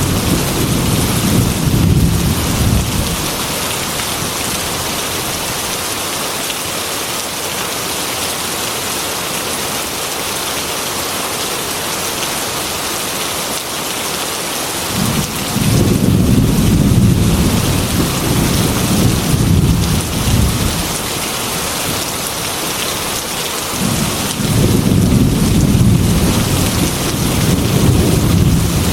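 Heavy rain falling in a steady hiss, with rolling thunder. The thunder rumbles at the start and fades within a few seconds, returns about halfway through for several seconds, and rolls again near the end.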